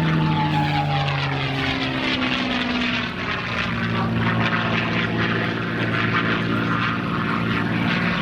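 P-51 Mustang's Merlin V-12 engine and propeller during a pass: the engine pitch drops over the first three seconds as it goes by, then holds as a steady drone.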